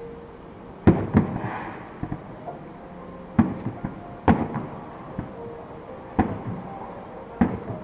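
Aerial fireworks shells bursting at a distance: a string of sharp booms, about six over the span, one every second or so, each trailing off in a short echo.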